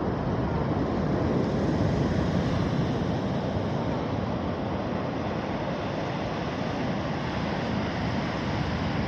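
Rough Mediterranean sea: a steady rush of surf breaking on the shore.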